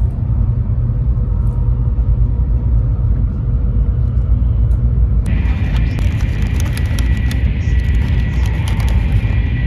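Steady low rumble of a Taiwan High Speed Rail train heard from inside the passenger car while travelling at high speed. About five seconds in, a brighter hiss joins the rumble, carrying a faint thin steady tone and small scattered clicks.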